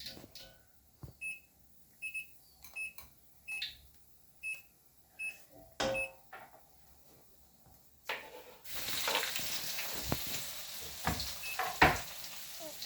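Sharp washing machine's control panel beeping, a series of short high beeps roughly every second alongside clicks and knocks. About two-thirds of the way in a steady rushing noise starts, like water filling the tub, with a few louder knocks over it.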